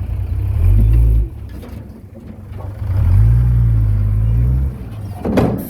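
Heavy diesel engine of earthmoving machinery running and revving in two surges, the second held for about two seconds. A short noisy burst comes near the end.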